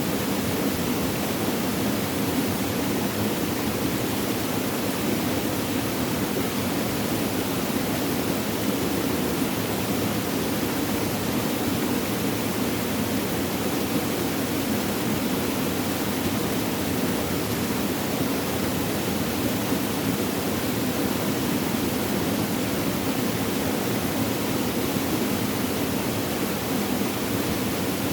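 Flowing water running steadily: an even, unbroken rush with no separate splashes or drips.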